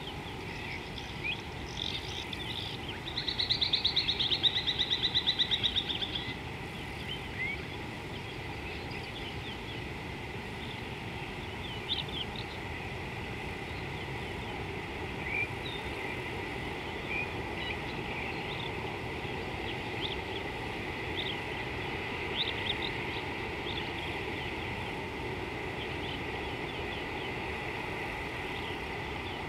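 Wild birds calling outdoors over steady background noise: scattered short high chirps, and one loud, rapid pulsing trill about three to six seconds in.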